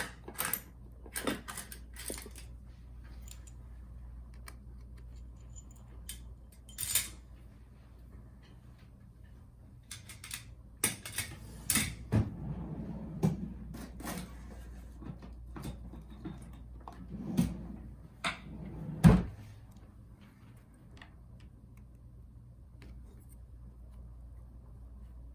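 Irregular small clicks, taps and scrapes of hand tools and small parts being handled on an opened MacBook Pro during disassembly, with a louder knock about 19 seconds in, over a faint steady hum.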